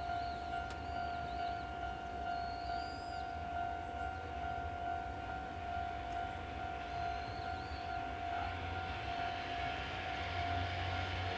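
A steady high-pitched tone over a low rumble, with small birds chirping in short calls. A train's rolling hiss builds over the last few seconds.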